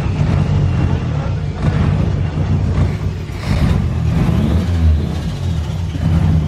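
Nissan 240's newly revived engine running close by, its pitch rising and falling as it is revved a couple of times while the car is driven off under clutch.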